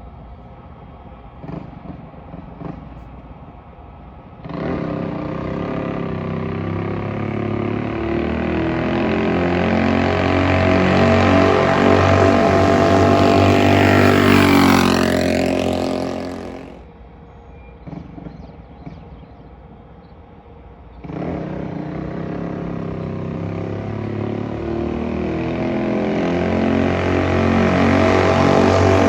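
Stage 2 Predator 212 single-cylinder engine on a mini bike, with the governor removed and a hot cam, idling, then throttled up suddenly and held high, climbing for about ten seconds. Its pitch sweeps down and it drops back to idle, then it is throttled up again about two-thirds of the way in and keeps rising.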